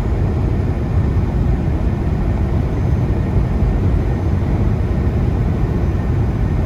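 Inside the cab of a Freightliner semi truck cruising down the highway: a steady low drone of engine and road rumble.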